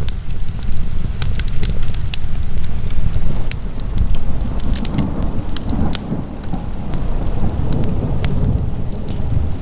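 Wood fire burning in a fireplace: frequent sharp crackles and pops of burning logs over a steady low rumble of the flames.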